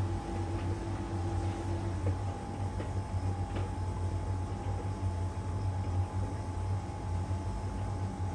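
LG heat pump tumble dryer running mid-cycle in its drying phase: a steady low hum from the compressor and fan with the drum turning, a higher tone in the hum dropping out about two seconds in, and a few faint ticks.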